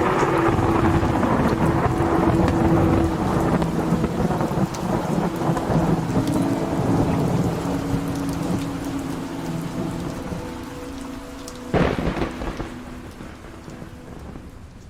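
Heavy rain with rolling thunder, and a sharp thunderclap about twelve seconds in, then the rain fades out near the end. A few held musical tones sound faintly underneath.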